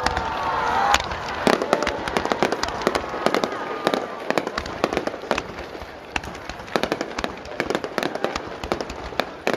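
Aerial fireworks bursting: a dense run of sharp pops and crackles, with louder bangs about a second in and half a second later.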